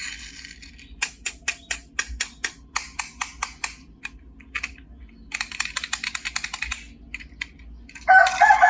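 A run of sharp clicks, about five a second, then a faster, denser rattle of clicks, and near the end a loud, wavering squeal-like tone.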